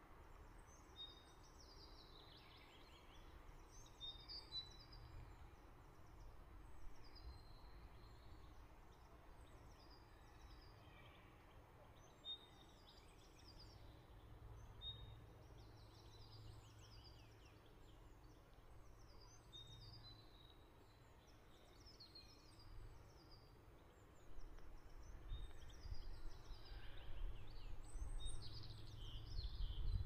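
Faint outdoor birdsong: many short, high chirps and calls from several birds, repeating throughout. Under them is a low rumble that grows louder in the last few seconds.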